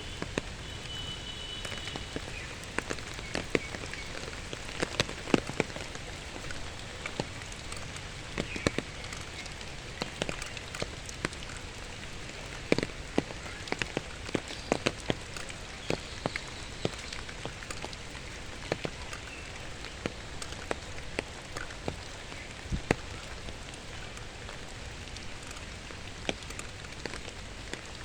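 Outdoor ambience of steady hiss with scattered, irregular sharp ticks, like rain pattering and dripping onto surfaces. A brief high tone sounds about a second in.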